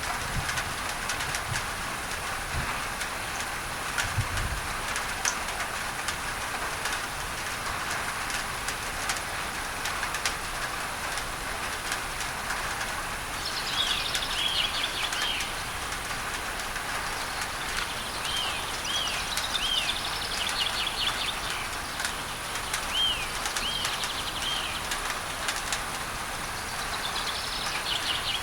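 Steady rain on a tin roof under an even hiss of masking noise, with scattered drop clicks. About halfway through a bird starts calling in short runs of quick arched chirps, three or four times.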